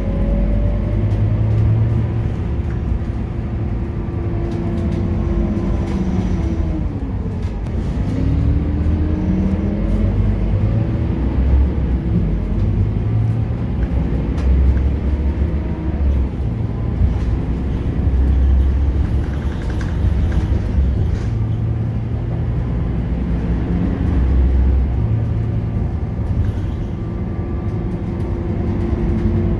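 Scania K230UB city bus engine and ZF automatic gearbox under way: the engine note falls steadily to a low point about seven seconds in and then climbs again. Through the rest of the stretch the pitch rises and falls repeatedly as the bus speeds up, changes gear and eases off.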